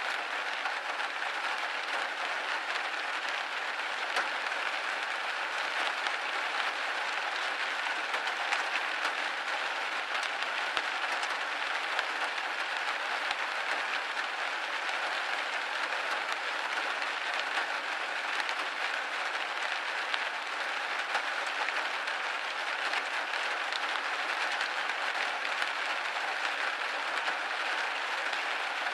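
Steady rain pattering on a window pane, an even hiss of many small drop ticks with no let-up.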